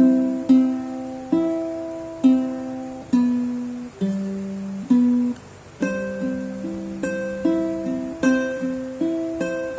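A plucked string instrument playing a slow melody, each note picked and left to ring and fade before the next.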